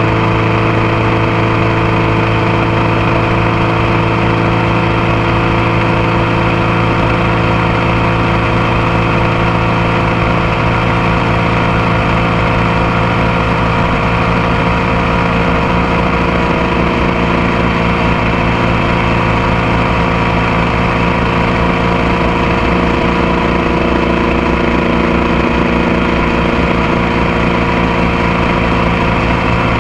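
Motorcycle engine and exhaust heard up close, running steadily at an even pitch with no revving.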